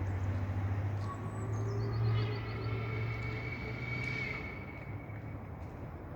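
LMS Royal Scot class three-cylinder 4-6-0 steam locomotive running light, a steady low rumble that eases off about four seconds in, with a thin high squeal over it in the middle.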